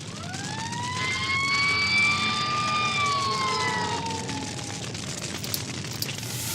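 Cartoon vehicle sound effect: a siren-like whine that rises, holds, then falls away over about five seconds, over a steady rumbling noise.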